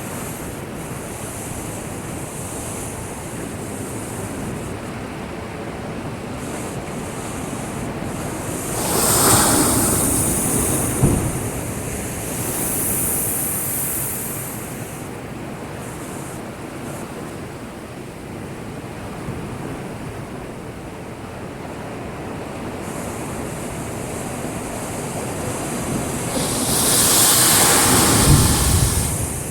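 Heavy typhoon swell breaking against a breakwater: a steady wash of surf with a big surge about nine seconds in that ends in a sharp thud, and another near the end.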